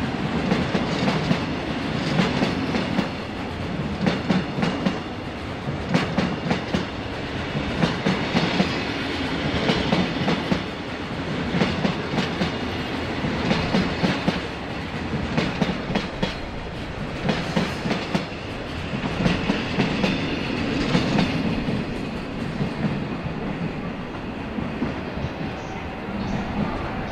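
Freight train of oil tank wagons rolling past, its wheels clicking over the rail joints in repeated clusters every second or two over a steady low rumble. The sound eases slightly near the end as the last wagon goes by.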